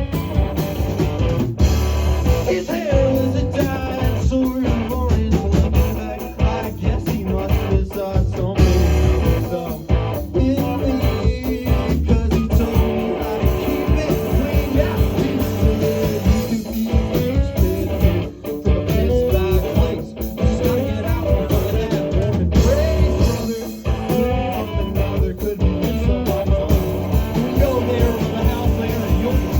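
Live rock band playing, with electric guitar, bass guitar and drums.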